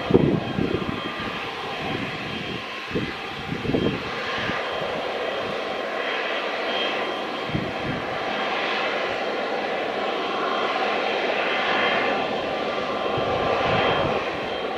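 Boeing 777 jet engines running with a steady rushing sound and faint high tones, with a few low thumps in the first few seconds.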